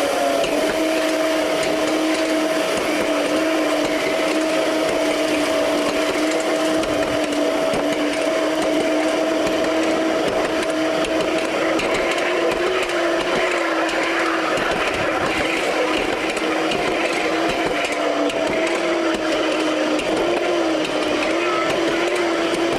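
5-inch gauge miniature railway train running: a steady machine whine that rises slightly in pitch at the start and then holds, over a constant rattling noise from the train.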